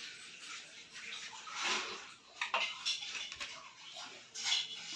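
Light metallic clinks and rubbing of hand work on the washing machine's metal parts and bolts, in short irregular bursts.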